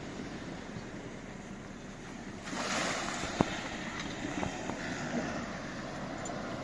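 Steady rushing noise that gets louder about two and a half seconds in, with a single sharp knock about a second later.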